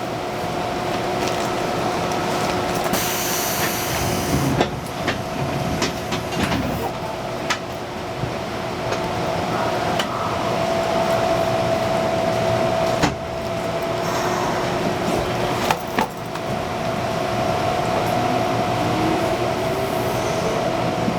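Tokyo Metro 8000-series subway car heard from inside the cabin while running underground: a steady running noise with a constant electrical hum, and wheels clicking over rail joints every few seconds. Near the end a motor tone rises in pitch.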